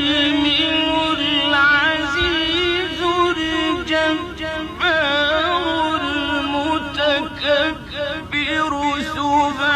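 Quran recitation by a male reciter in the melodic mujawwad style, drawing out long, wavering, ornamented notes.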